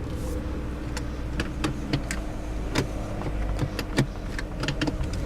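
2001 BMW 740i's 4.4-litre V8 idling steadily, heard from inside the car, with a series of irregular sharp clicks over it.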